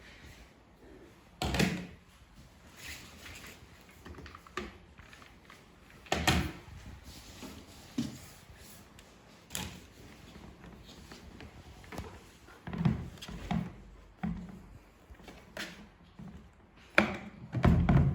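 Scattered clunks and knocks, a few seconds apart, from a shop vacuum's parts being handled and fitted together. The vacuum's motor is not running.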